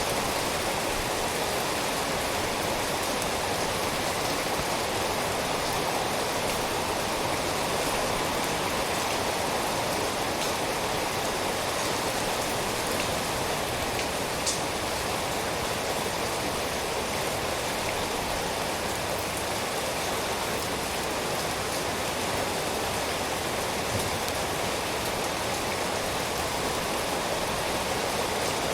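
Steady rain falling, an even rushing hiss with a single drop-like click about halfway through.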